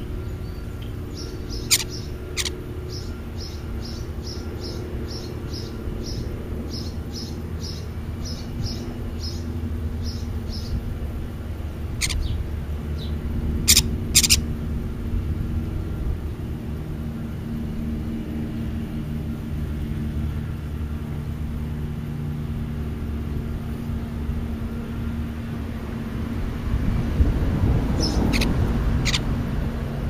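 A bird chirping in a rapid run of short, high notes, about three a second, for the first ten seconds or so, with a few sharp clicks scattered through. A steady low rumble runs underneath.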